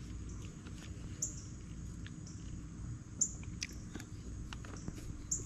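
A bird repeating a short, high chirp about every two seconds over a steady high insect drone and a low background rumble, with a few faint clicks.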